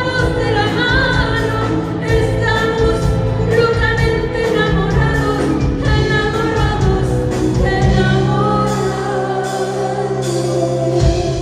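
Live concert music: sustained singing over a full band accompaniment, with a steady bass line underneath.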